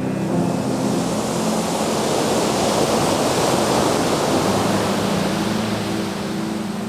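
Ocean surf: a wave rushes in, swelling to a peak about halfway and then fading, with background music underneath.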